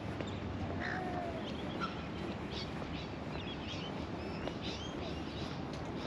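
Small birds chirping and twittering in many short calls, some with quick rising or falling sweeps, over a steady outdoor background rumble.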